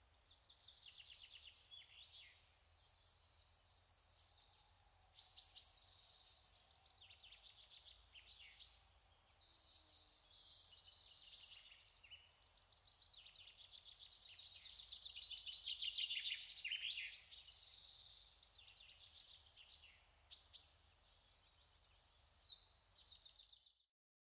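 Several small songbirds chirping and trilling in quick, overlapping phrases, with a few louder calls about 5, 11 and 20 seconds in.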